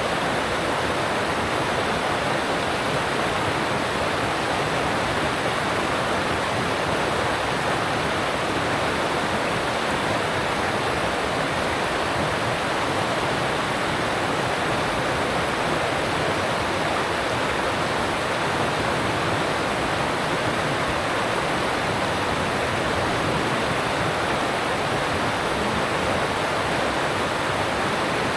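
Alpine stream rushing over rocks: a steady, even rush of water with no let-up.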